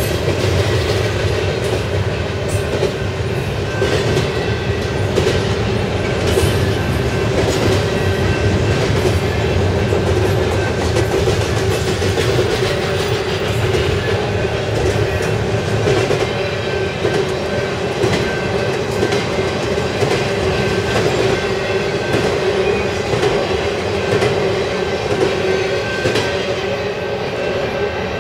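Double-stack intermodal freight train rolling steadily past: the well cars rumble and their wheels clatter over the rails, with faint steady high tones above the rumble.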